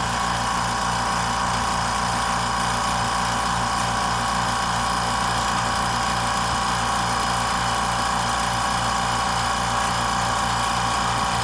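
California Air Tools 10020C 2.0 HP oil-free air compressor running steadily: a steady hum with a high whine over it.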